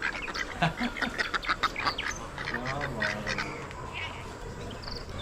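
Farm poultry calling: a dense run of short, harsh calls that thins out over the second half.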